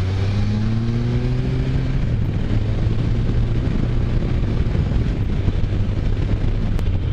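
Can-Am Spyder F3's 1330 cc three-cylinder engine rising in revs over the first couple of seconds as it pulls out of a corner, then running steadily at speed over a rush of wind.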